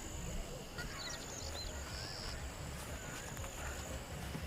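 Outdoor mountain-forest ambience: small birds chirping in short rising and falling calls, a high thin buzz that starts and stops, over a steady low rumble.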